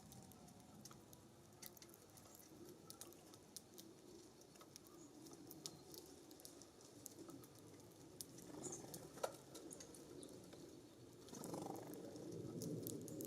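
Faint scattered ticks and taps of small birds pecking and hopping at a seed feeder. A low rush of breeze on the microphone swells near the end.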